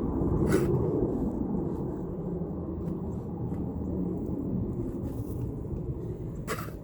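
Steady low rumble of a car's engine and road noise, with two short clicks, one about half a second in and one near the end.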